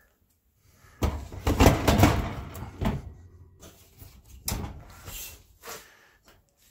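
Clattering, scraping and knocking of metal parts as the oven door hinges are worked into the door's sheet metal. The busy run of knocks and rattles starts about a second in and thins out near the end.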